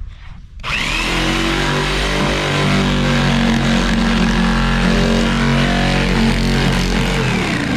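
Electric jigsaw cutting a circle out of plywood. The motor starts about half a second in with a rising whine, runs steadily through the cut, and winds down near the end.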